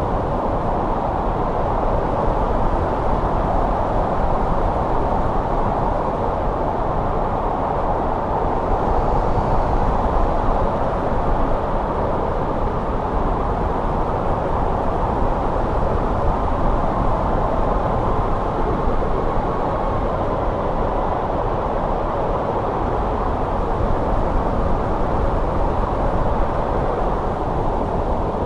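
Wind of a snowstorm blowing steadily, a low rushing noise with no gusts or breaks.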